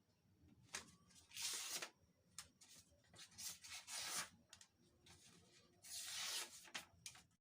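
Faint rubbing strokes in three short bouts, with a few light clicks between them.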